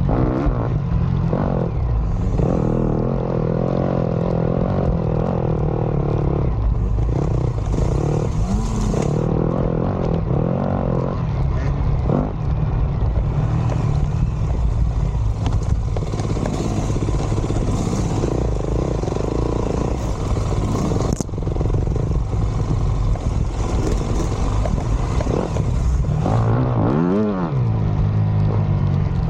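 Dirt bike engine running under varying throttle while riding, its pitch rising and falling with the revs, with some rattling. Near the end the revs drop sharply and climb again.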